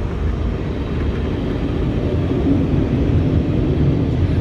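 Steady low rumble of automatic car wash machinery, heard muffled from inside the car's cabin.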